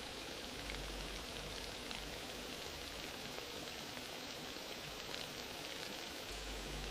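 Fireplace fire crackling steadily: many small crackles over an even hiss, with no single loud pop.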